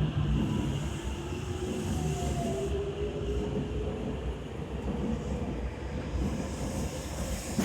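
Interior running noise of a Tokyo Metro 7000 series commuter train: a steady rumble of wheels and running gear, with a faint motor whine that glides slowly in pitch.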